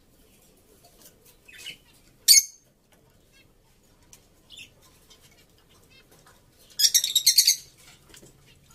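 A bird chirping: a few separate high calls, one sharp and loud, then a quick run of loud chirps about seven seconds in.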